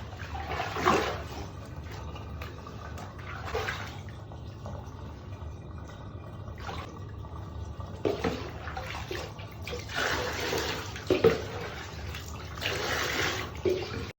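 Water running and splashing in a bathtub while a kitten is washed, with several short louder splashes and knocks scattered through.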